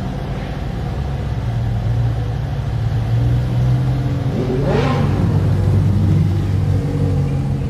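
Twin-turbo Mazda RX-7's engine running steadily, with a brief rise and fall in pitch about halfway through.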